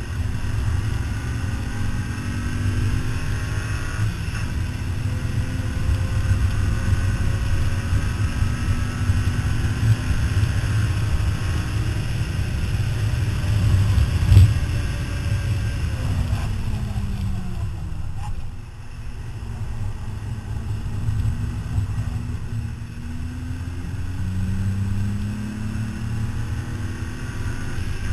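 Car engine under hard acceleration on a race track, its pitch climbing and dropping back at each upshift, slowing with a falling pitch past the middle, then pulling up through the gears again near the end. Heavy wind rumble on the microphone underneath.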